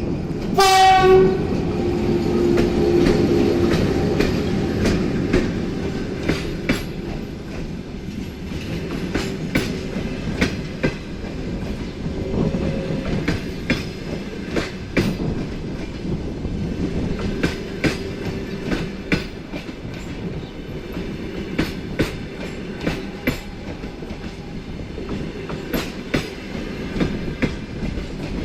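A train horn gives one short, loud blast about half a second in. The passenger train then rolls past at departure, its wheels clicking irregularly over the rail joints above a steady rumble.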